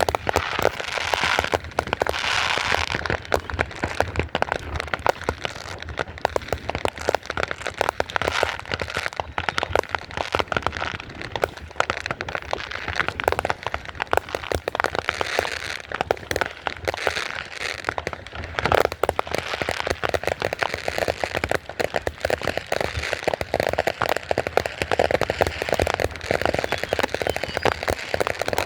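Fireworks going off in a dense, unbroken barrage of rapid crackling and popping cracks, many each second.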